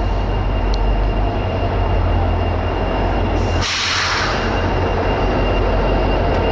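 An Israel Railways passenger train arriving at the platform: a loud steady rumble with a thin high whine running through it, and a short burst of hiss about three and a half seconds in.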